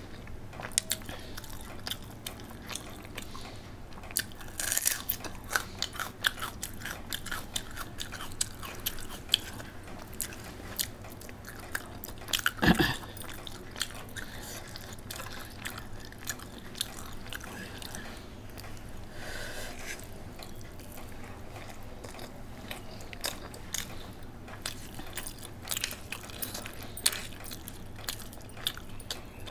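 Close-miked chewing and biting of a person eating rice and meat curry by hand, with many small wet mouth clicks and smacks. One louder thump comes about halfway through.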